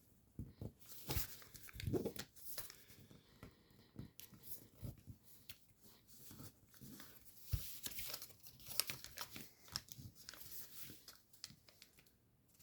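Sheet of origami paper being folded and creased by hand: soft, irregular rustles and crinkles with brief pauses between them.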